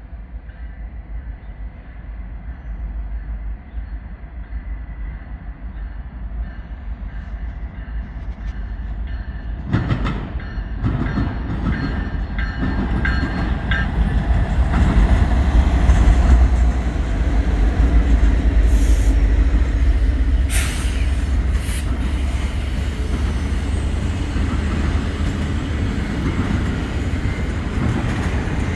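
Norfolk Southern freight train approaching and passing close by. The diesel locomotives' low rumble grows steadily louder, with a sharper rise about ten seconds in, then the rolling clatter of railcars with a few brief high wheel squeals about two-thirds of the way through.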